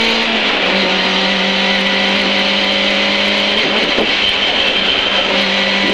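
Lada VFTS rally car's four-cylinder engine running hard at high, steady revs, heard from inside the cabin. The engine note changes about four seconds in.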